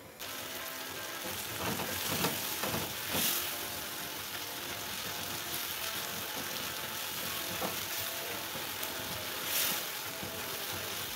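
Chopped tomatoes sizzling as they fry in a pot. A plastic spoon stirs them, with a few brief scrapes against the pot.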